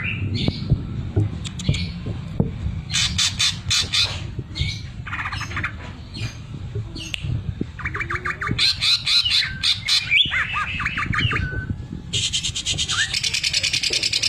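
Cucak ijo (green leafbird) singing in bursts of fast, machine-like rattling notes, its 'sewing machine' mimicry, broken by short chirps and squawks. The rattles come in several runs a second or two long, the longest at the end.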